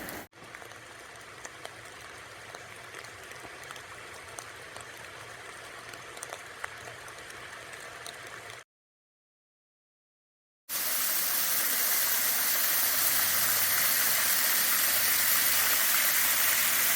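Light rain falling, with scattered drips, then after a two-second dropout a louder, steady rush of water.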